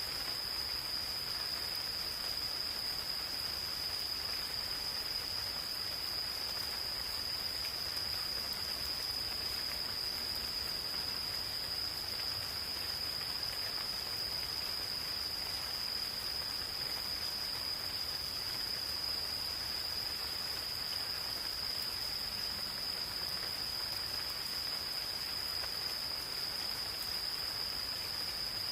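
Gentle rain falling steadily on forest foliage, with insects calling in a continuous high trill that holds one pitch without a break.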